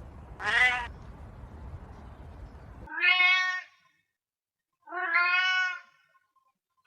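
Domestic cat meowing three times: a short meow about half a second in, heard over a low background rumble, then two longer meows.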